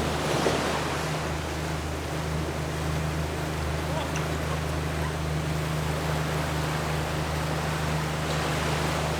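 Yamaha 40 hp outboard motor running at a steady speed while under way, a constant low hum under the rush of water and wind.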